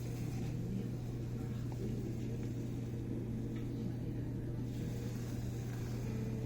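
Steady low hum with a constant pitch.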